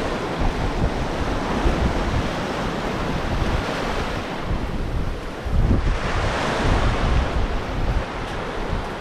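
Ocean surf breaking and washing up the beach, with wind buffeting the microphone; a wave swells louder about six seconds in.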